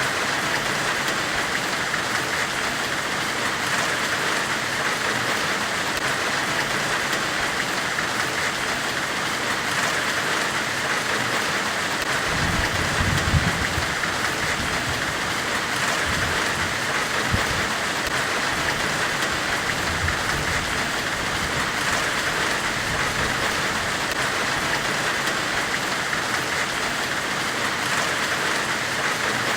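Steady white-noise hiss in the style of a blacksmith's forge, with a brighter band in the upper middle. A brief low rumble comes about halfway through, and faint ticks recur every few seconds.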